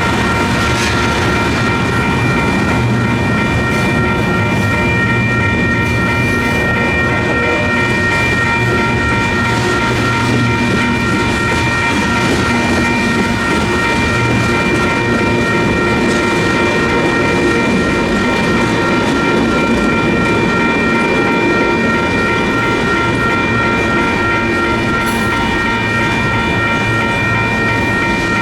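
Freight train cars rolling slowly through a grade crossing with a steady rumble and clacking wheels, while the crossing's electronic bells ring on without a break.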